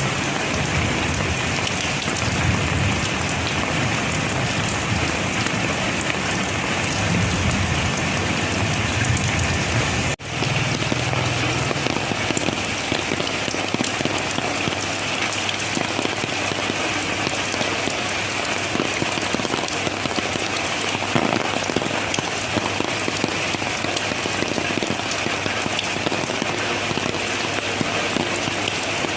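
Steady rain pattering on surfaces, with a low rumble beneath it for the first ten seconds or so. The sound cuts out for a split second about ten seconds in, then resumes.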